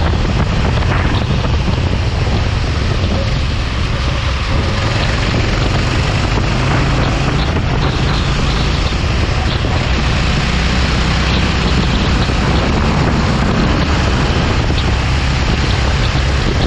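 Go-kart engine running steadily at speed, with wind noise on the microphone.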